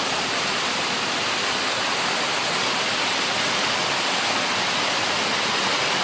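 Steady rush of water falling at a waterfall, an even, unbroken noise.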